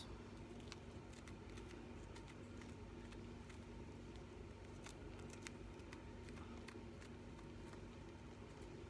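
Faint, scattered clicks and taps of a knife cutting capsicum and scraping out its seeds, over a steady low hum.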